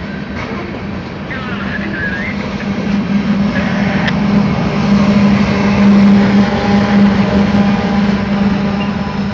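Diesel locomotive of a freight train passing close by, its engine a steady drone that builds to a peak about six seconds in and then eases, over the rumble of the train on the rails.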